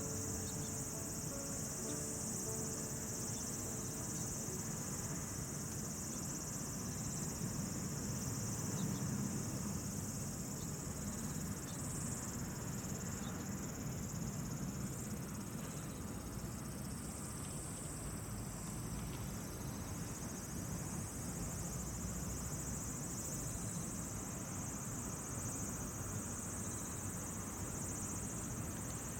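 A chorus of insects, crickets or similar, trilling steadily and high-pitched over a low, even outdoor rumble.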